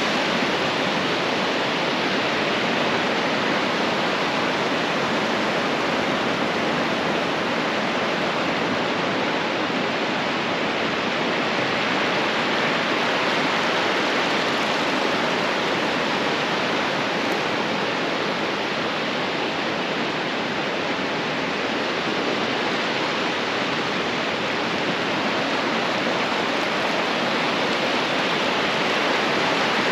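Ocean surf breaking on a beach, a steady continuous rush of waves with no pauses.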